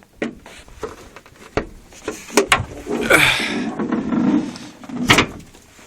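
Handling knocks and clicks, a rustling stretch about three seconds in, and one heavy thump about five seconds in. No engine is running.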